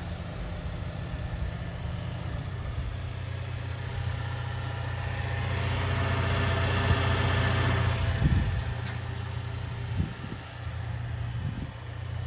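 Car engine idling steadily with a low hum. A rushing noise builds over several seconds and drops off about two-thirds of the way through, and a few dull thumps follow near the end.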